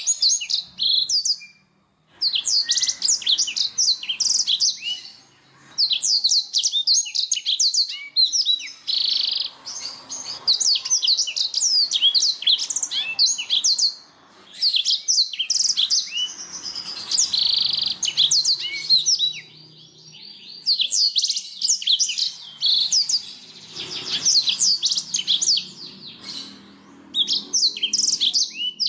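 Domestic canary singing long, fast trilling phrases of chirps and rolls, broken by short pauses every few seconds.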